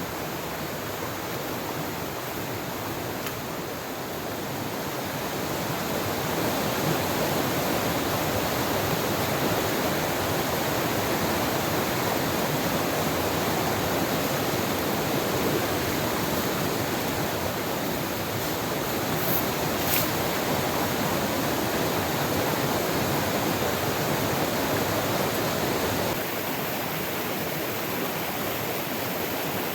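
Steady rush of a river's flowing water. It grows louder a few seconds in and drops back a little, suddenly, near the end.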